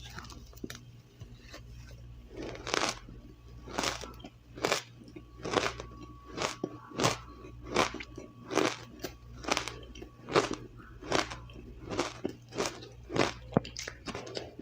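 Close-up crunching of powdery or crushed ice being bitten and chewed, a steady run of crisp crunches about once or twice a second after a quieter start.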